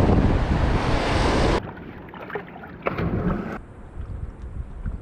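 Whitewater rushing and splashing around a raft, with wind buffeting the microphone. It is loud, then cuts off abruptly about a second and a half in to much quieter water noise with a few faint knocks.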